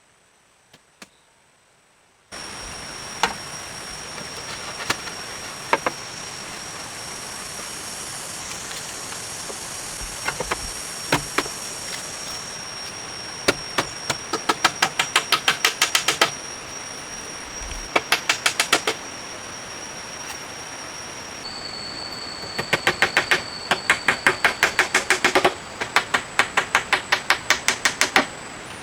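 Rainforest insects keeping up a steady high whine, which starts about two seconds in and shifts pitch later on. Over it come several runs of rapid, even knocks, about ten a second.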